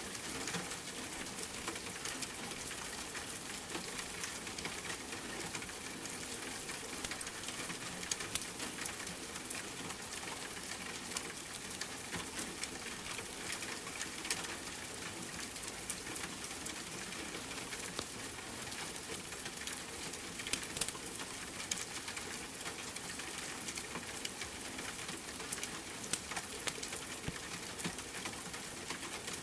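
Steady rain with a fireplace crackling: an even hiss of rainfall with many small, sharp pops scattered through it.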